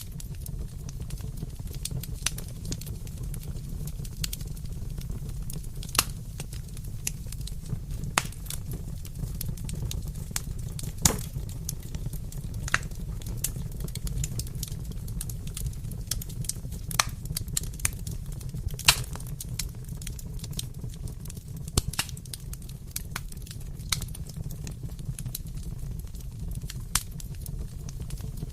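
Wood fire burning with a steady low rumble and irregular sharp crackles and pops, a few of them louder than the rest.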